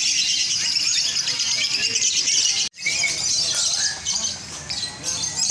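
Many lovebirds chirping and squawking at once in a dense, continuous high-pitched chatter, briefly cut off about two and a half seconds in before it resumes.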